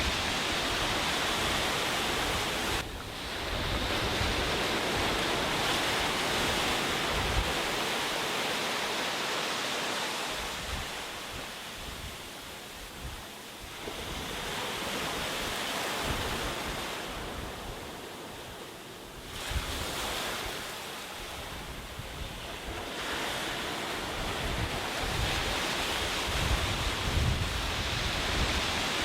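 Sea waves breaking and washing up a beach, the surf swelling and easing several times with quieter lulls between breakers. Wind buffets the microphone with a low rumble.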